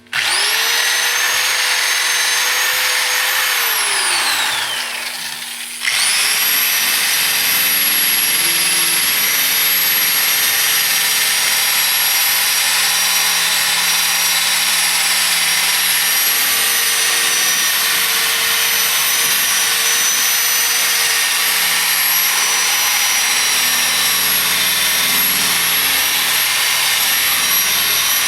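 Small electric power tool polishing stainless steel trim. Its motor whine spins up, winds down with a falling pitch about four seconds in, then starts again about six seconds in and runs steadily.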